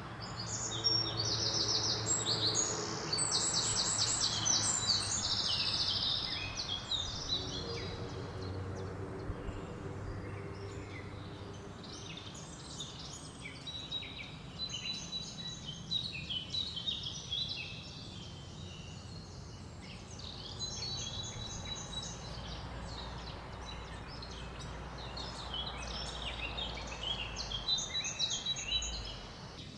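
Several songbirds singing and chirping over one another, with rapid trills loudest in the first few seconds, over a steady rustle of wind through leaves.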